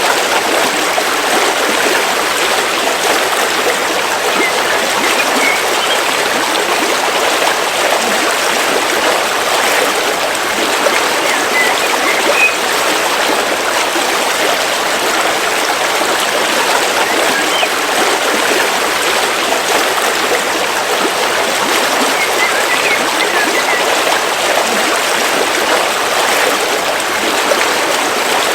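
River water flowing and rushing steadily over stones, with a few faint high bird chirps now and then.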